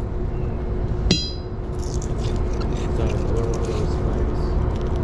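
A single sharp metal-on-metal clink about a second in, ringing briefly, as magnet-fishing scrap iron strikes metal. A steady low rumble with a faint steady hum runs underneath.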